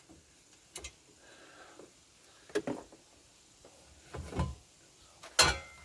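A few separate clicks and knocks of parts being handled and fitted, the sharpest and loudest near the end.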